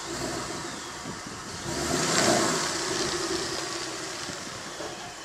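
2011 Ford Mustang GT's 5.0-liter V8 running off-camera after its burnout. It swells louder about two seconds in and then fades back to a steady hum.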